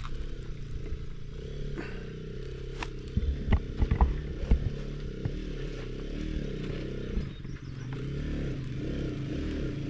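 Motorcycle engine revving up and down as the bike is ridden over rough, rocky ground, with a few loud knocks and clatter about three to four and a half seconds in.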